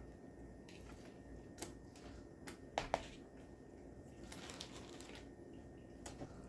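Small kitchen handling noises: a few light clicks and taps, two sharp clicks close together about three seconds in, and a soft rustle a little later.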